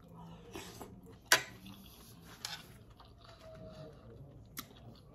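Close-up chewing and mouth sounds from a person eating a spoonful of menudo, with two sharp clicks, one about a second in and one near the end.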